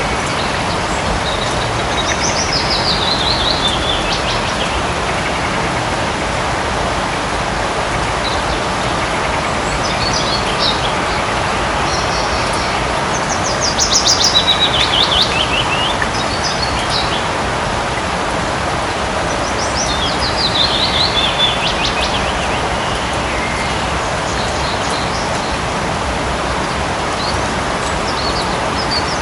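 Light rain falling steadily in a forest, with a songbird singing a short descending trill about four times, a few seconds apart, and a few short chirps between.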